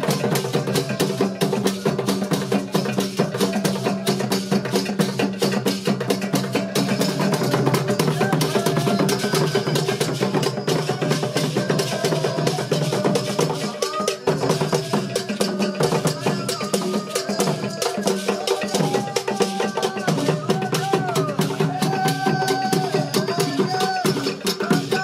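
Drumming and percussion music, dense and steady, with a voice singing or calling over it from about a third of the way in.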